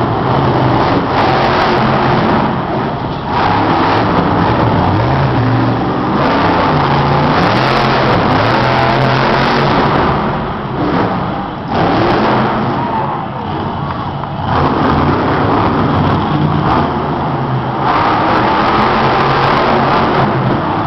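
Monster truck's supercharged V8 engine revving loudly, rising and falling in pitch over and over as the truck is driven hard, with short lulls when the throttle comes off.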